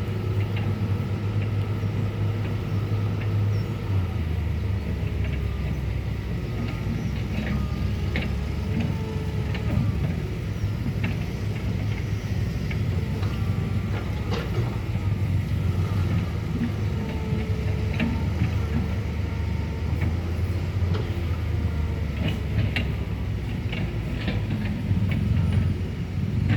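Excavator's diesel engine running steadily, its pitch dropping about four seconds in, with scattered clanks and short squeals from the machine while it digs soil.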